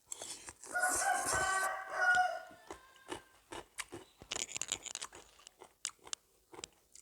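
A rooster crows once, a call of about a second and a half. Then close-up chewing and crunching of food, in quick irregular clicks.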